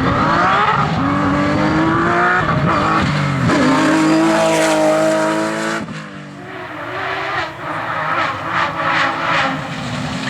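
Porsche 911 GT3 RS rally car's flat-six engine under hard acceleration: the pitch climbs, drops at an upshift about two and a half seconds in, and climbs again until the driver lifts off about six seconds in. After that the engine revs unevenly up and down.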